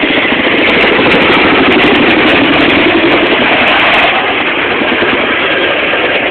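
Chinook tandem-rotor helicopter flying a display, its two Lycoming turboshaft engines running loud and its rotor blades beating with a rapid, steady chop.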